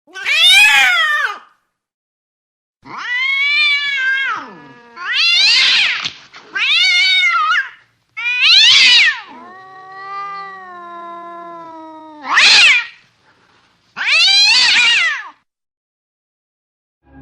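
Angry domestic cat yowling and caterwauling: about eight loud, drawn-out, wavering calls with short gaps between them, and one long, lower moan in the middle.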